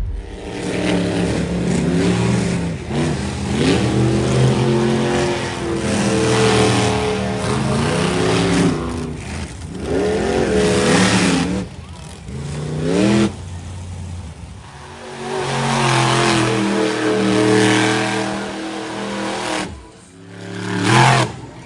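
Monster truck engine revving hard in repeated surges, its pitch climbing and dropping again and again, with short lulls about ten, fourteen and twenty seconds in.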